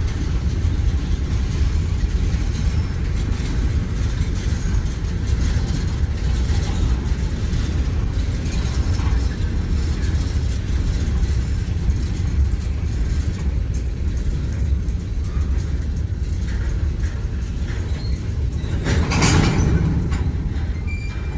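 Freight train hopper cars rolling past: a steady low rumble of steel wheels on the rail with scattered clicks, and one brief louder burst of noise near the end.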